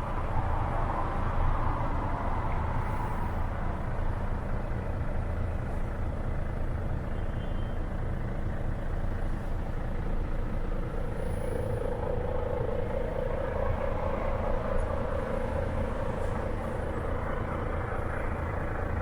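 Volvo FH4 truck's 13-litre six-cylinder diesel engine idling with a steady low rumble.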